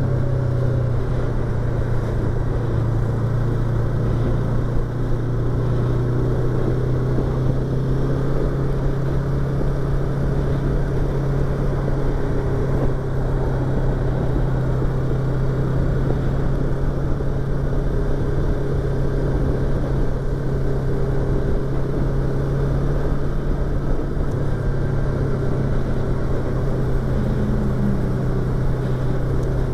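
Yamaha YZF-R25's 249 cc parallel-twin engine running at fairly steady revs while riding, heard through a microphone inside the rider's helmet over a steady rush of noise.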